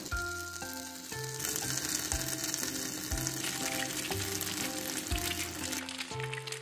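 Egg omelette with cheese sizzling and crackling in hot fat in a frying pan, the sizzle strongest through the middle. Background music plays along with it.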